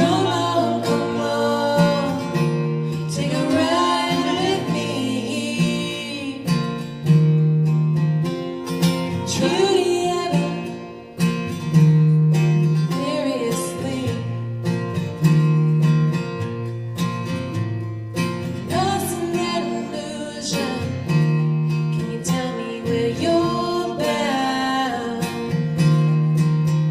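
Acoustic guitar accompaniment with a singer's voice coming and going over it, a slow song played live.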